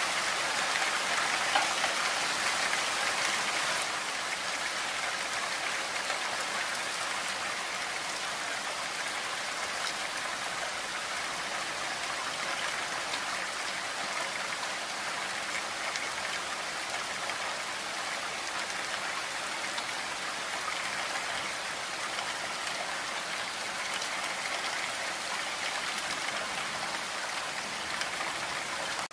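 Heavy rain falling steadily: an even hiss of countless drops, a little louder for the first few seconds.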